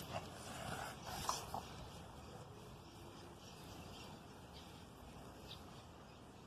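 A pug moving about: a few light taps and a brief snuffle in the first second and a half, then only faint, low background noise.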